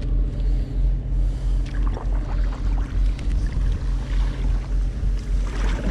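Pedal kayak's pedal drive running as the kayak is pedalled along: a steady low hum with a regular pulsing, about two a second, and a few light clicks.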